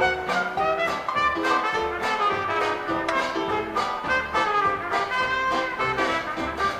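Live 1920s–30s style jazz dance orchestra playing a number, with trumpets and trombones carrying the tune over a steady dance beat.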